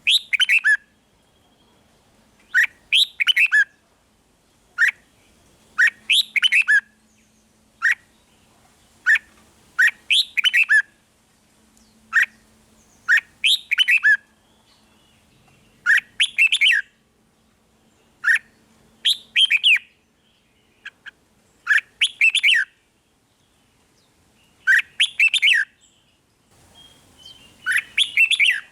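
Red-whiskered bulbul singing in short, quick, loud phrases, one every second or two.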